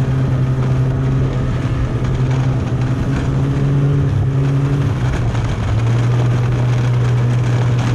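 Snowmobile engine running steadily under way, with rushing noise over it; the engine note dips about five seconds in, then holds steady at a slightly lower pitch.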